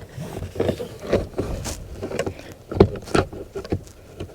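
Plastic trim tool prying at a car's interior door panel: scattered knocks, clicks and scrapes of plastic against the panel as the tool is worked in under its edge.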